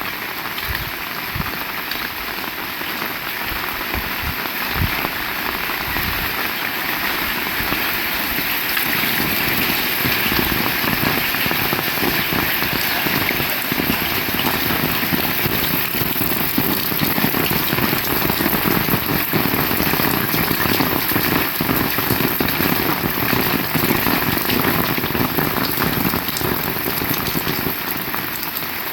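Heavy rain pouring down, a dense patter of drops that grows louder about eight seconds in and stays heavy.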